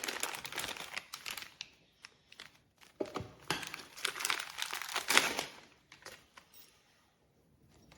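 Crinkling packaging being handled, in two spells: one at the start and another from about three seconds in to about five and a half seconds.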